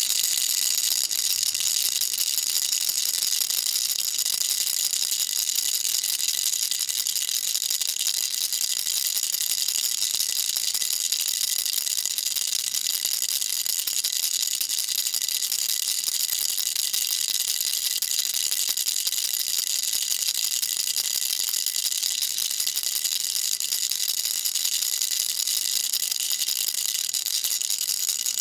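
Baby rattle shaken without pause, a dense, even, high-pitched rattling of small beads against a hard shell.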